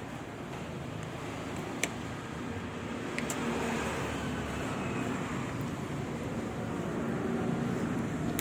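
Steady motor-vehicle noise, with one sharp click a little under two seconds in and another just after three seconds.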